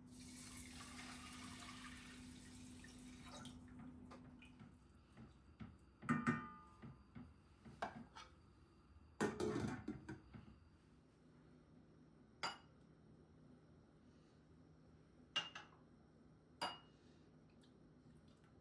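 Kitchen tableware handling: a soft hiss of water running for the first few seconds, then dishes clattering and being set down, and three sharp, ringing tableware clinks in the second half.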